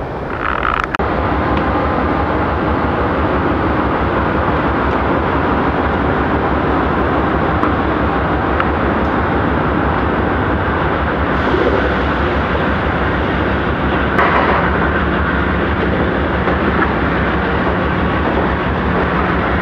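Passenger train on the tracks below, a steady rumble with a low hum.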